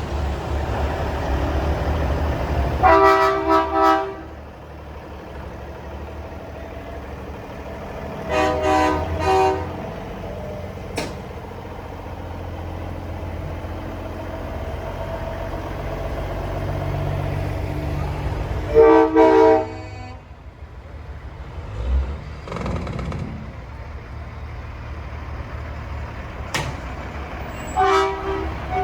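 Semi trucks sounding loud multi-tone air horns in four bursts of short blasts, over the steady rumble of diesel truck engines.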